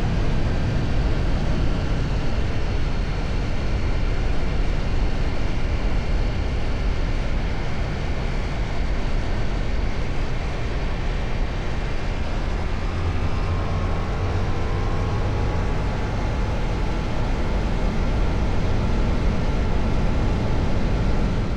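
Ducati Multistrada V4 riding at a steady cruise, its V4 engine note under heavy wind rush on the helmet or bike microphone. The engine pitch drifts gently up and down with small throttle changes, with no sharp revving.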